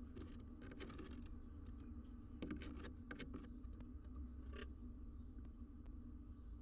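Scattered light scratches and taps of birds' claws moving on the wooden nest box, over a steady low hum.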